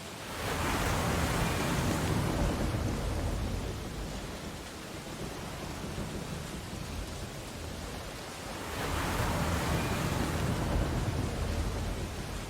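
Ocean waves breaking on a beach: two waves surge in, one about half a second in and one at about nine seconds, each swelling to a rushing wash and then easing back into the steady hiss of the surf.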